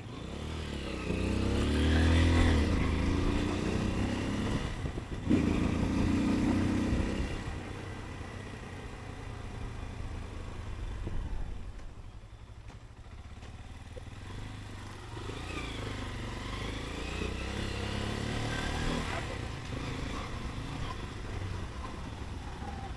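Motorcycle engine pulling through city traffic, its pitch rising and falling as the rider accelerates and shifts, twice over. A steady tone sounds for about two seconds a few seconds in.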